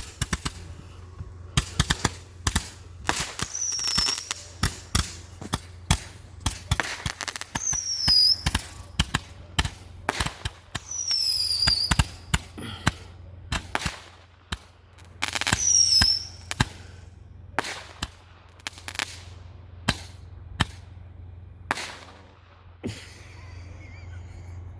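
Fireworks going off in a rapid string of sharp cracks and bangs. Short falling whistles come every few seconds, and the bangs thin out near the end.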